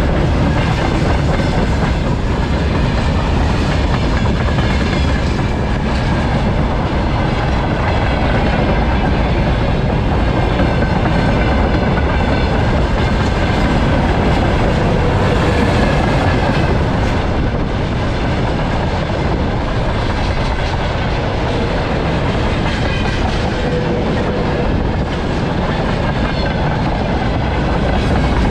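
A train passing close by: a loud, steady rumble of wheels on the rails.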